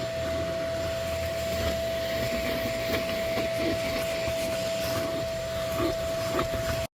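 Vacuum motor running steadily with an even whine, with light irregular rubbing and knocking as the nozzle works over the interior.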